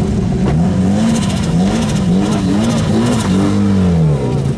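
Nissan 240SX (S13) engine revved in a run of short throttle blips as the car rolls slowly by, its pitch rising and falling about five times, with one longer, fuller rev near the end.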